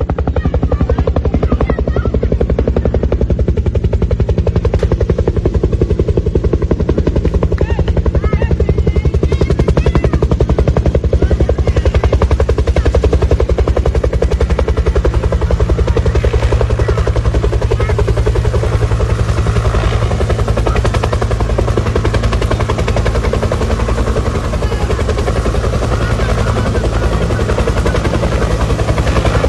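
Helicopter running close by: a loud, steady, fast chop of the rotor blades over a low engine and rotor drone.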